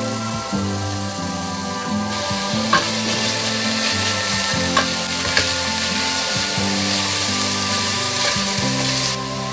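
Crumbled sausage meat and onions sizzling in a stainless steel pot, stirred with a wooden spoon, which knocks against the pot a few times. The sizzling starts about two seconds in and stops shortly before the end, over background music.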